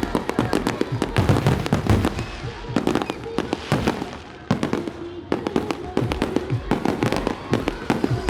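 Fireworks and firecrackers going off in a dense, continuous barrage of sharp bangs and cracks, many each second, with music and voices under them.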